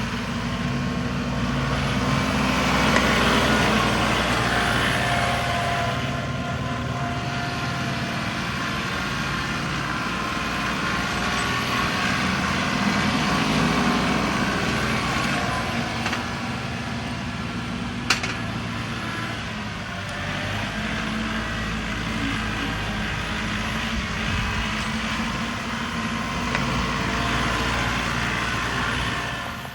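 John Deere 2038R compact tractor's three-cylinder diesel engine running steadily at working speed, with a single sharp click about two-thirds of the way through.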